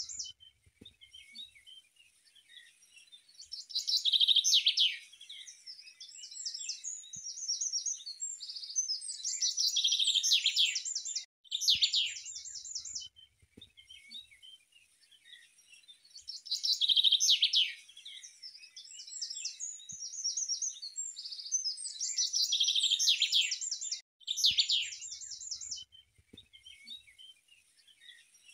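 A songbird singing in long, fast phrases of chirps and rapid trills, high-pitched, with short pauses between phrases; the same run of song comes round again about every 13 seconds.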